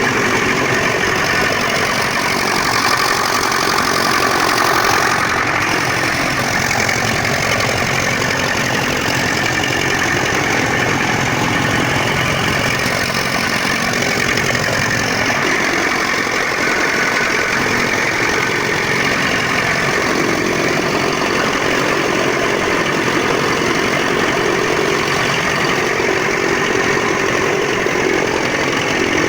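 Straw and grass chopping machine (chaff cutter) running steadily while chopping straw into short pieces.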